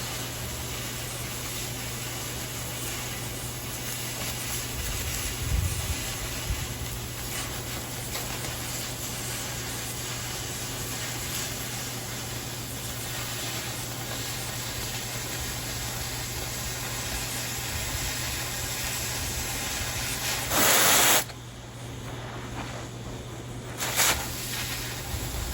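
Oxy-fuel cutting torch hissing steadily as it cuts through 1/4 inch steel plate. About twenty seconds in there is a short, louder rush of noise, after which the hiss is quieter.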